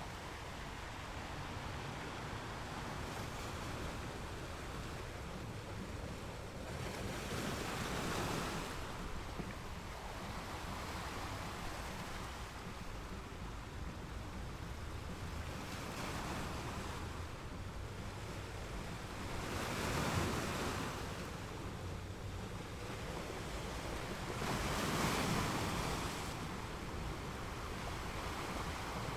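Ocean waves breaking on a beach, a steady wash of surf with three larger waves swelling and crashing, about a third of the way in, about two-thirds in and near the end.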